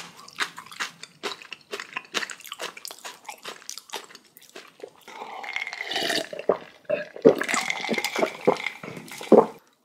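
Close-miked wet chewing of spicy kimchi: many small sharp mouth clicks and smacks, busier and wetter in the second half.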